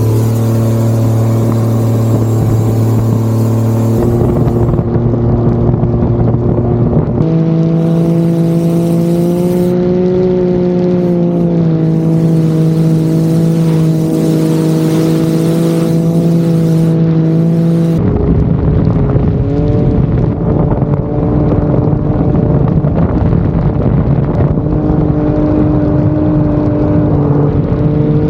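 Turbocharged Ford 4.0 L straight-six in a sterndrive race boat, running hard at a steady speed. The pitch holds for several seconds at a time and then jumps to a new steady note, with the biggest shifts about 4, 7 and 18 seconds in.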